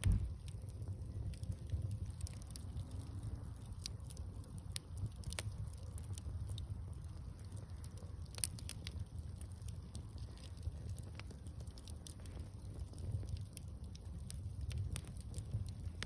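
Wood bonfire crackling, with irregular sharp pops over a steady low rumble, and a low thump right at the start.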